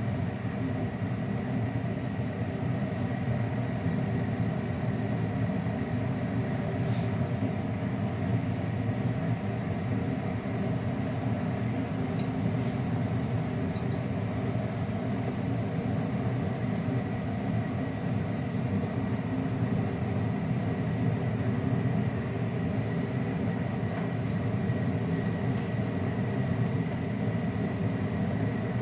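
A machine running steadily with a low hum and a faint, constant high whine, with a few faint ticks.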